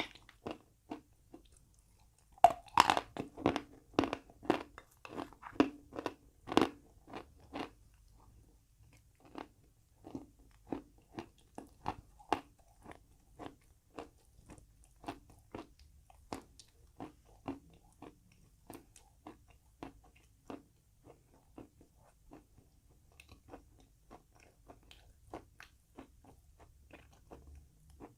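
A person biting into and chewing crunchy chalk with paste close to the microphone. A loud crunchy bite comes about two and a half seconds in, followed by steady chewing crunches about two a second that grow softer later on.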